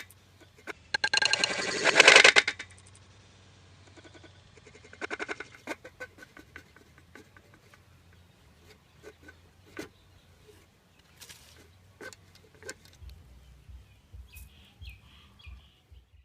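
A bird squawking loudly for about two seconds, followed by scattered clicks and rustles and a few faint high chirps near the end.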